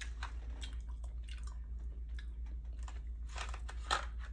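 A person chewing a chewy candy with the mouth close to the microphone: soft wet clicks and smacks, a little stronger near the end, over a steady low hum.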